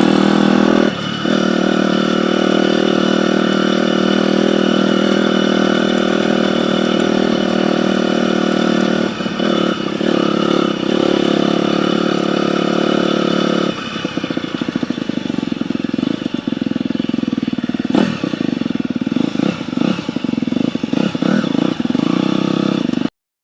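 Dirt bike engine running at a steady note that dips briefly a few times. From about fourteen seconds in it drops to a lower, uneven run, with a sharp crack near eighteen seconds, and the sound cuts off suddenly just before the end.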